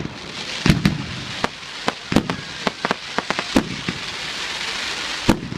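Fireworks display: aerial fireworks bursting in a quick irregular series of about a dozen sharp bangs, with a dense high crackling hiss building through the second half.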